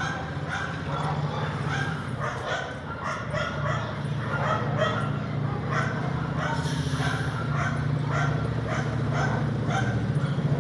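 A dog yipping and whimpering in quick, repeated short calls over a steady low hum.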